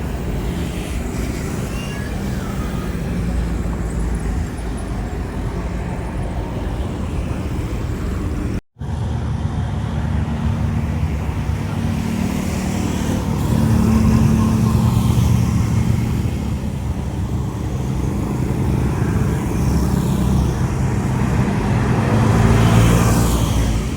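Steady low engine rumble of road traffic mixed with distant jet airliner noise. It cuts out completely for a moment about nine seconds in, then swells louder around fourteen seconds and again near the end.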